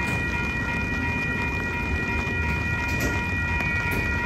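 Autorack freight cars rolling past on the rails: a steady low rumble of wheels, with steady high-pitched tones over it.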